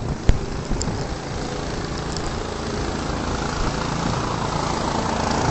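A motor vehicle's engine running steadily, growing slowly louder, with a sharp tick about a third of a second in.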